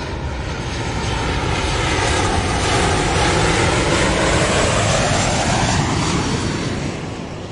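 Airliner passing overhead: a rising roar that peaks mid-way and then fades as it moves away, with a sweeping, phasing tone as it goes over.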